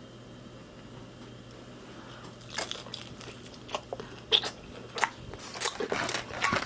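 Biting into and chewing a taco: a quiet start, then from about two and a half seconds in a run of irregular sharp clicks and crackles of eating.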